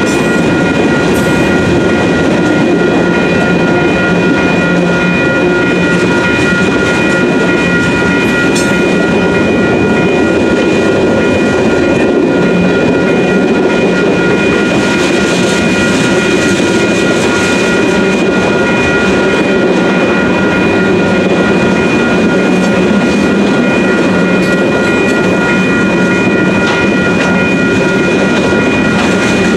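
Freight cars of a manifest freight train rolling steadily through a grade crossing, with a continuous rumble and wheel clatter over the rail joints. The crossing's WCH Type 2 electronic bells ring throughout as a steady high tone, sounding until the gates rise.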